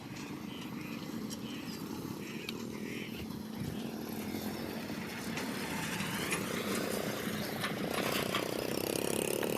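A vehicle engine running at the roadside, growing louder over the second half as traffic noise builds.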